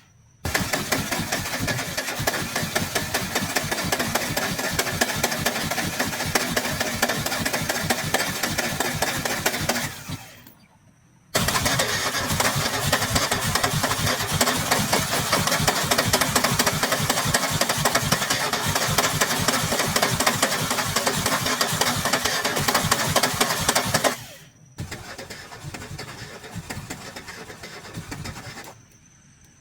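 Scrap car's engine being turned over by its starter in three long attempts, each cut off abruptly, the last one quieter: an attempt to start an engine that won't start.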